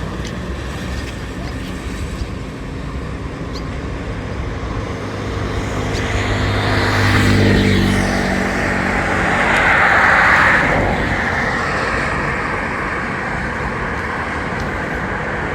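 A motor engine running close by, its note building to a peak about halfway through and then easing off, over a steady rushing noise.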